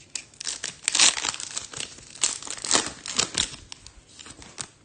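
A foil trading-card pack wrapper being torn open and crinkled by hand. Dense crackling that comes in several loud bursts, then dies away near the end.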